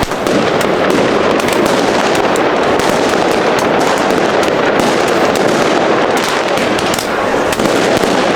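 Dense, continuous crackle and bangs of many fireworks and firecrackers going off at once, a steady loud barrage of cracks and pops.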